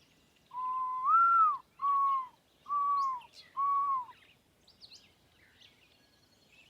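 Four loud, clear whistled notes: a longer first note that rises and falls, then three shorter arched notes about a second apart, with faint high bird chirps after them.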